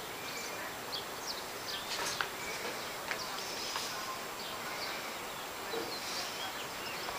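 Small birds chirping in short, scattered calls over a steady outdoor hiss, with a few faint clicks.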